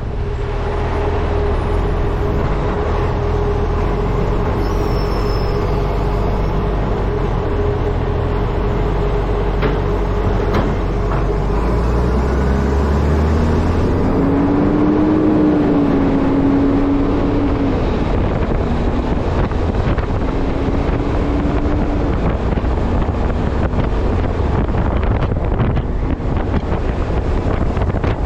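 Wind buffeting a camera mounted on the front of a moving truck, over the low drone of the truck's engine and drivetrain. Partway through, a wavering whine rises and falls for several seconds.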